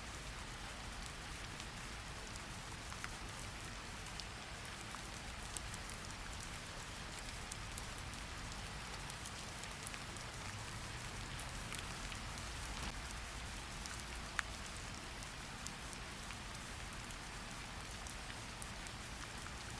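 Steady rain falling, an even patter with scattered sharper drop ticks over a low rumble.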